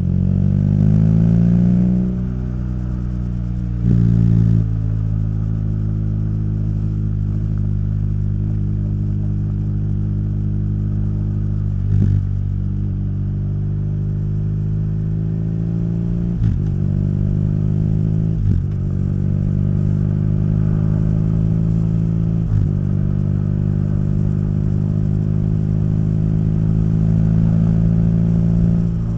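Motorcycle engine and exhaust while riding. The revs climb over the first two seconds and fall with a gear change, then the engine runs at a steady cruise with slow rises in pitch, broken by a few short, sharp, louder moments.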